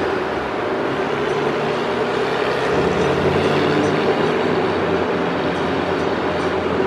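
Steady drone of a car engine running, with no change in pitch.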